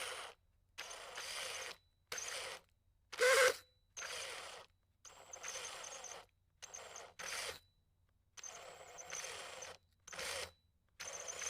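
A mechanical sound effect: about a dozen short whirring, rasping noises, each under a second long, stopping and starting with brief silences between them.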